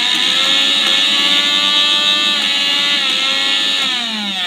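Mixer grinder motor running at speed with an empty small jar fitted, a loud steady high whine. Near the end the pitch falls as the motor slows down.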